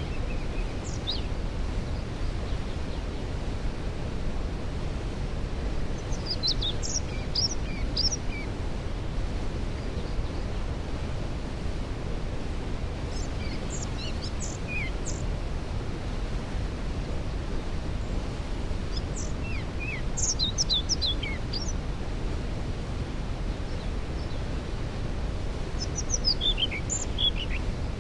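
Waterfall rushing steadily, heaviest in the low end, with a songbird singing short phrases of falling notes four times over it, about every six seconds.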